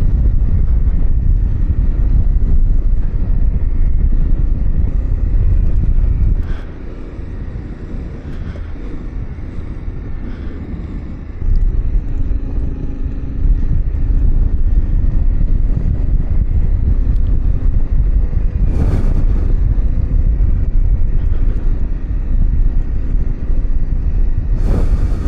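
Yamaha Ténéré 700's parallel-twin engine running under way on a dirt trail, mixed with heavy low wind rumble on the microphone. It goes quieter for about five seconds a quarter of the way in, then returns to full level, with two brief louder swells later on.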